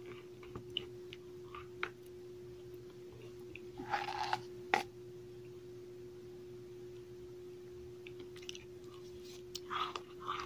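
Cornstarch chunks being bitten and chewed in the mouth, soft powdery crunches in short clusters, loudest around four seconds in and again near the end, with a sharp click just before the five-second mark. A steady low hum runs underneath.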